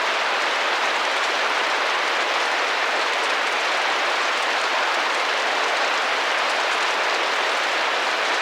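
Steady rain pattering on a window, an even hiss of many small drops without distinct separate hits.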